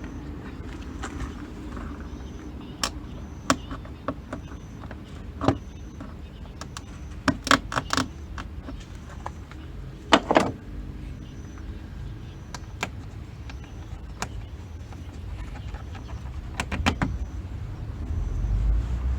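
Scattered metallic clicks and clinks of hand tools and loosened parts as a component is taken off in a car's engine bay, the loudest a ringing clink about ten seconds in, over a low steady hum.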